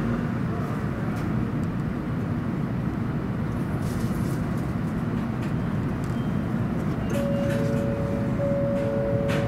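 Steady hum and rumble of a stationary 700 Series Shinkansen, heard from inside the passenger car, with a few faint clicks. From about seven seconds in, two steady tones sound together, briefly and then again.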